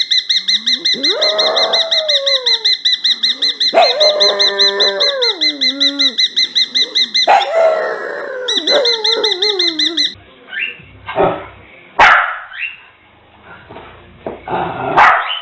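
A dog whining and howling in falling glides over a rapid, high-pitched pulsing beep. About ten seconds in, the sound changes to a few short dog barks and sharp clicks.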